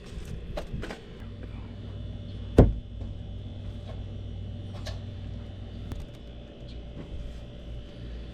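A single loud knock about two and a half seconds in, among a few lighter clicks and taps, over a low steady hum that stops about six seconds in.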